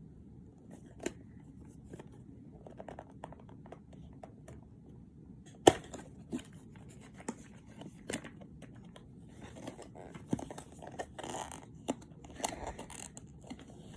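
Product packaging being handled and opened, with rustling, scratching and tearing and scattered sharp clicks and taps. The sharpest click comes a little over five seconds in.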